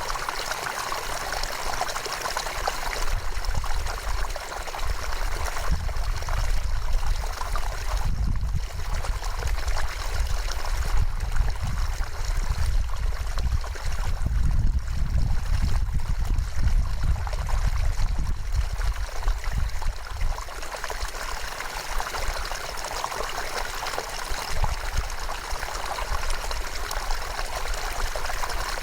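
River water running steadily with a rushing, trickling sound. A low rumble under it swells and fades through the middle.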